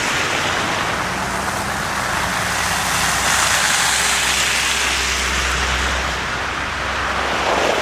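A motor vehicle drives by on the snowy road, its low engine hum building and then dropping away about seven seconds in. A steady hiss of wet snow falling runs under it.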